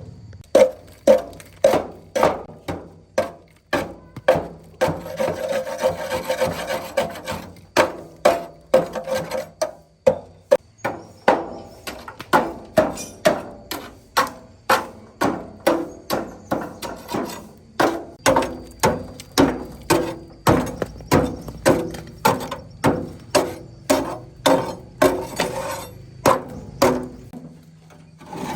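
A hand tool worked back and forth in rhythmic rasping strokes, roughly two a second, with a short pause about ten seconds in.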